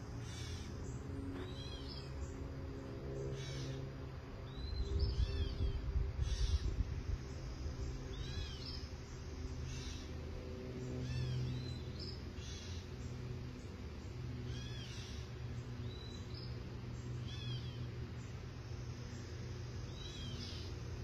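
A songbird calling, a short curved chirp repeated every couple of seconds, over a steady low hum; a louder low rumble comes in about five seconds in and lasts a couple of seconds.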